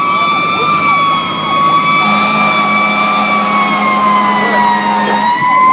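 Fire engine siren sounding on an emergency response run: a loud, steady, high siren tone that sags slightly in pitch near the end and then climbs back up. A low steady hum sits under it for a few seconds in the middle.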